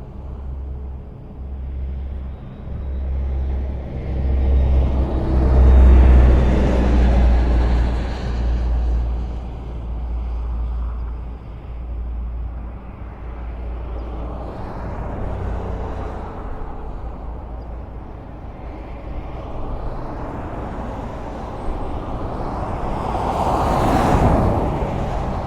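Highway traffic: a steady road rumble with vehicles passing one after another, swelling as each goes by. The loudest pass-bys come about a quarter of the way in and again near the end.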